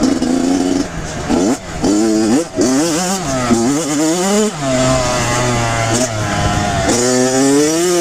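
Kawasaki KX100 two-stroke dirt bike engine being ridden hard, its pitch rising and dropping back several times as the throttle is opened and closed.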